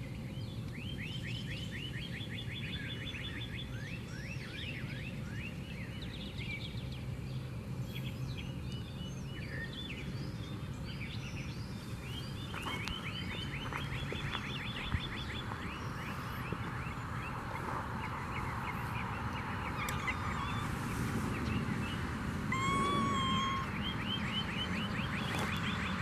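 Songbirds singing: repeated trills, each a quick run of downward-sweeping notes lasting a second or two, over a steady low rumble. A short, steady-pitched call comes in a little before the end.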